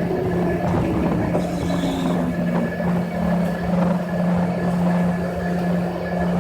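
Cabin noise of an Embraer ERJ-145 regional jet on the ground just after landing: a steady engine hum over low rumble, with small rattles. A fainter whine falls in pitch over the first two or three seconds.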